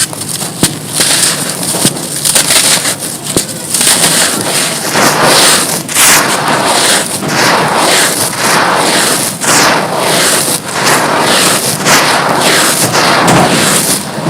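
Brittle, dry, gritty chunks being crumbled and crushed, giving a dense, continuous crackling and crunching.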